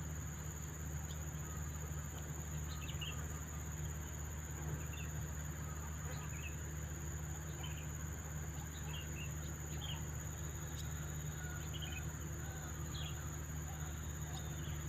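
Steady high-pitched insect trilling, with short bird chirps scattered through it and a steady low hum underneath.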